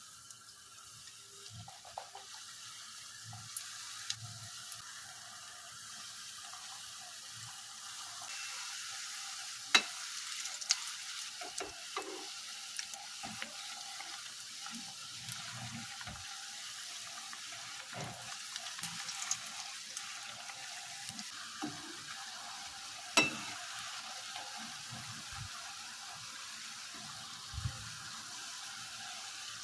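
Egg and parsley omelette batter frying in oil in a pan, with a steady sizzle and a few sharp clicks of a utensil against the pan.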